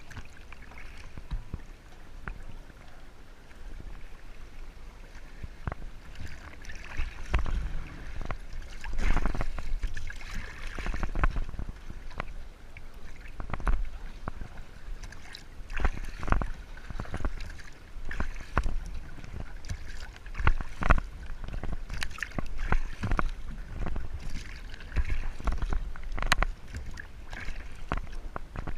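Water splashing and sloshing against a kayak under way, with frequent irregular sharp knocks and taps over a steady low rumble.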